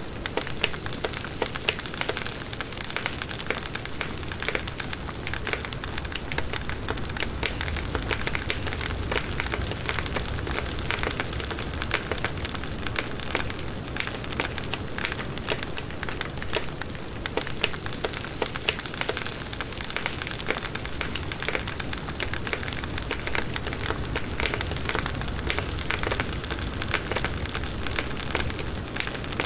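Firewood burning in a campfire, crackling steadily with many small, sharp pops.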